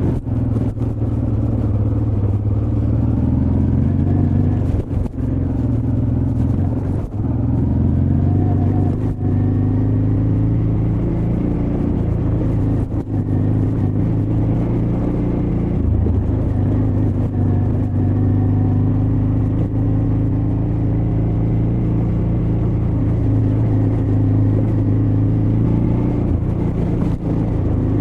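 Honda Transalp XL600V's 583 cc V-twin engine running on an off-road trail ride, its pitch rising and falling with the throttle, with brief dips in level a few times.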